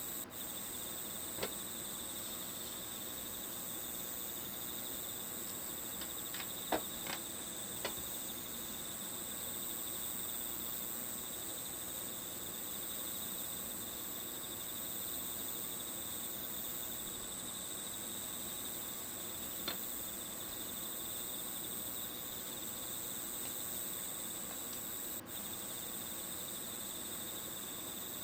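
Crickets chirring steadily in a continuous high-pitched drone, as a nature-sound background. A few short sharp clicks break through, the loudest about seven seconds in.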